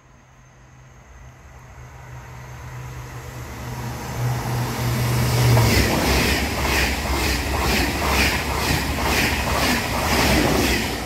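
TGV Duplex high-speed train approaching and passing at speed, growing louder for about six seconds and then a loud rush of wheels and air as the cars go by, with a regular beat of about two a second. A low hum fades out as the train arrives.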